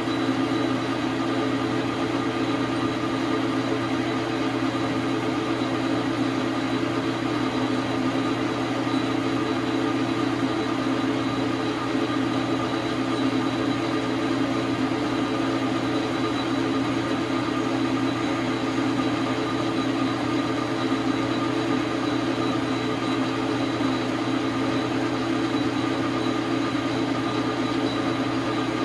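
Dar Sin 12 x 37 manual metal lathe running steadily, its motor and gear train giving an even hum with a few fixed whining tones.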